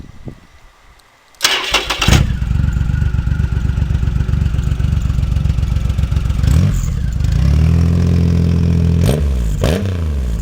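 Triumph Rocket III Roadster's 2.3-litre inline three-cylinder engine, breathing through a Viking slip-on exhaust muffler, is cranked on the starter about a second and a half in and catches after a brief crank. It then idles. Later it is revved, held at higher revs for a couple of seconds, and given two quick blips before dropping back to idle.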